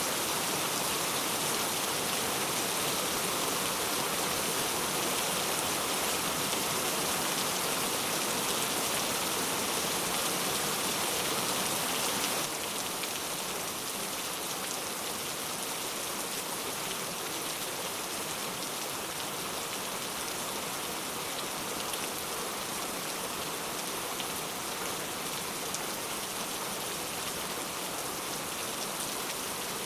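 Heavy rain falling in a steady, dense hiss. About twelve seconds in it drops a little in level, and a few separate drop taps can be picked out.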